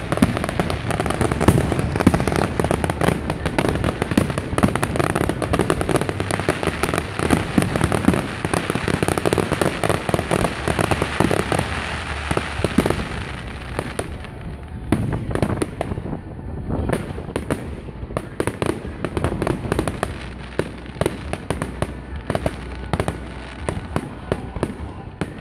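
Fireworks going off in quick succession: a dense stream of crackling bangs and pops from aerial bursts, thinning about halfway through to separate bangs with short gaps between them.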